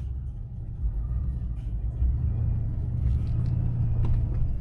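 Chevy Silverado pickup driving off, a steady low rumble of engine and road that gets louder about two seconds in.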